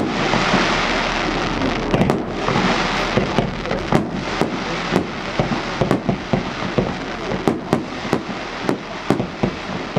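Fireworks display: a dense hiss for the first couple of seconds, then a rapid series of sharp bangs and pops from bursting shells, coming more often toward the end.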